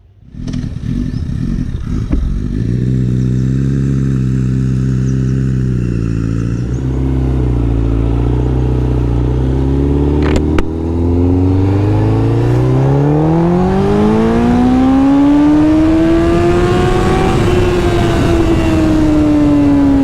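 Sport motorcycle engine running at low revs, then climbing smoothly in pitch over several seconds to high revs and holding there, with a single sharp click about ten seconds in.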